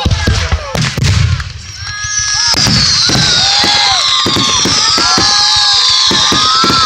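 Aerial fireworks going off: deep booms of shells bursting in the first second, then a loud, sustained barrage of crackles. Through it run repeated high whistles, each falling in pitch.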